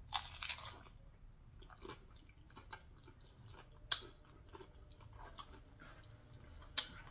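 Close-up bite into a crunchy taco shell just after the start, then chewing with scattered small crunches, the sharpest about four seconds in.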